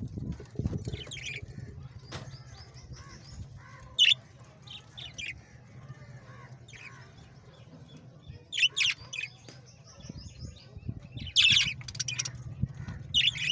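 Pet birds chirping in short, high, scattered calls, with louder bursts about four, nine and twelve seconds in, over a steady low hum.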